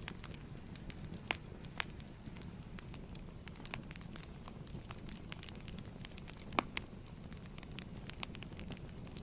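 Fireplace fire crackling: a steady low rumble of flames with scattered sharp pops, the loudest about two-thirds of the way through.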